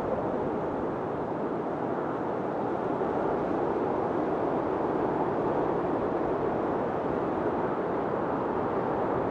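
Blizzard wind blowing steadily: a dense, even rushing noise that barely rises or falls.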